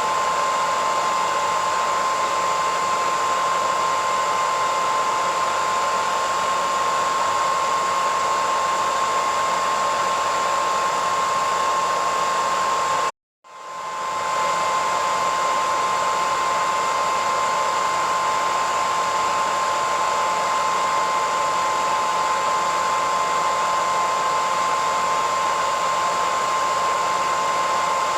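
Hairdryer running steadily: an even rushing hiss with a steady whine near 1 kHz. About halfway through it cuts out for a split second, then swells straight back.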